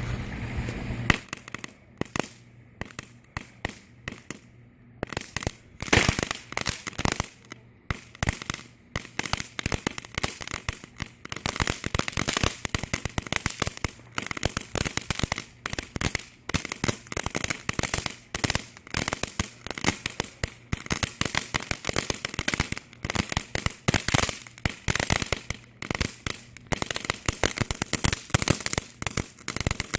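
Firecrackers going off in rapid, irregular strings of sharp cracks. The pops come in scattered bursts for the first several seconds, then become a nearly continuous crackle.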